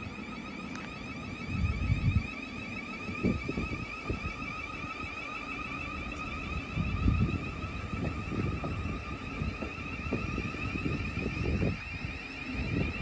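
A steady, warbling electrical whine, one tone with a second an octave above, from electric trains at the platform, over uneven low rumble and wind buffeting the microphone.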